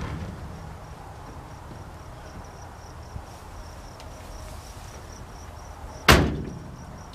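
Steady chirping of insects, with one loud bang about six seconds in that rings out briefly.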